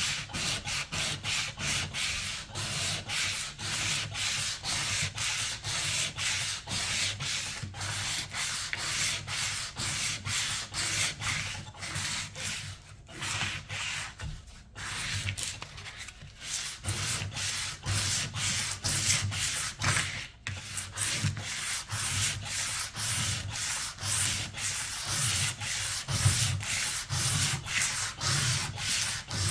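Sandpaper worked back and forth by hand, about two to three strokes a second, taking off old paint and finish. The strokes pause briefly a few times near the middle.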